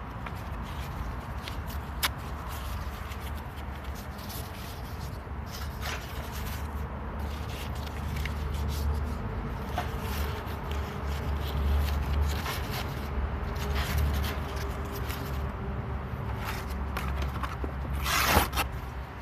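Rubbing and scraping of wood or card while preparing a campfire, with scattered light clicks and a short, louder scrape about a second before the end.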